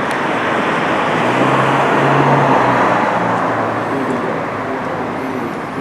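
A motor vehicle running, its engine hum and noise swelling to a peak about two seconds in, then easing off.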